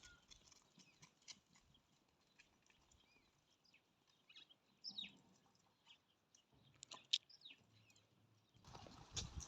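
Mostly near silence, with faint scattered hoof clicks from goats on the move and a few short high chirps around the middle; a brief rustle near the end.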